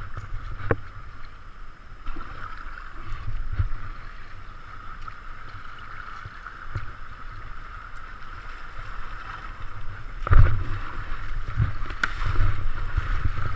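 Moving river water rushing steadily around a kayak, with a low rumble and a few short knocks, and a louder thump about ten seconds in.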